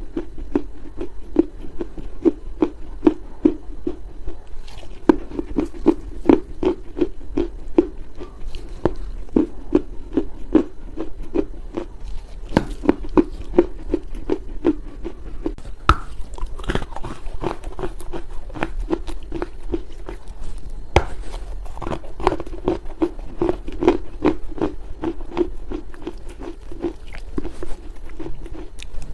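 Chunks of Chinese loess clay being bitten and chewed, many soft crunches and crackles over a steady chewing rhythm.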